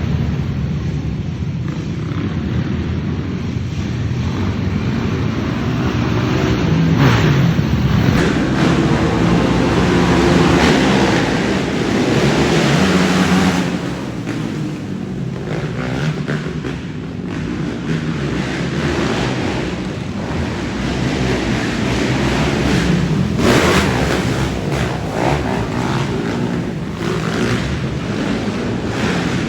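Racing ATV quad engines revving up and down continuously as the pack runs the dirt track. The sound swells loudest about a third of the way in and again briefly near the last stretch.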